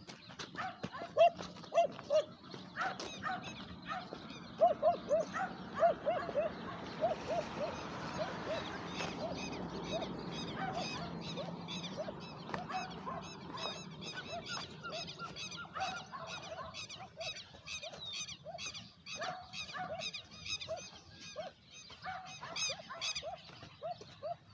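Several dogs barking over and over, with birds calling steadily in the background.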